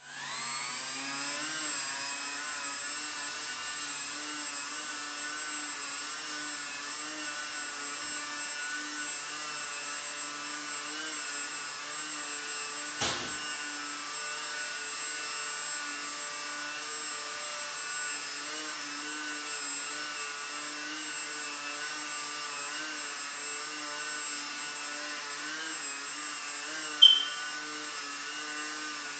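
Electric motor and propeller of a Techone mini Yak 54 foam RC airplane whining steadily in a hover, spooling up right at the start and wavering slightly in pitch as the throttle is worked. A single click comes about halfway through, and a short, sharp, high-pitched blip near the end is the loudest moment.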